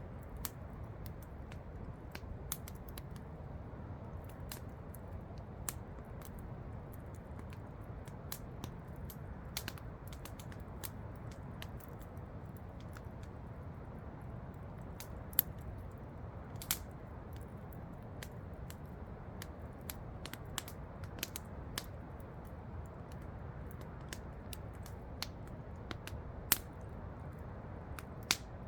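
Wood campfire crackling, with irregular sharp pops, a few of them louder, over the steady rush of a waterfall.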